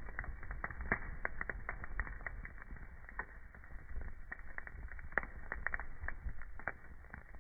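Wood fire crackling in a fireplace, with irregular snaps and pops over a low rumble of burning. A sharper, louder pop comes about five seconds in.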